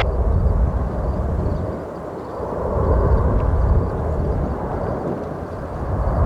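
Jet airliner's engines rumbling as it passes, with wind buffeting the microphone; the rumble swells about three seconds in.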